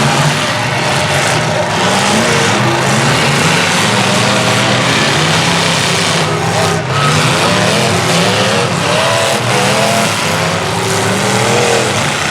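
Several large trucks' engines racing on a figure-8 track, revving and easing off so the engine pitch keeps rising and falling, with several engines heard at once.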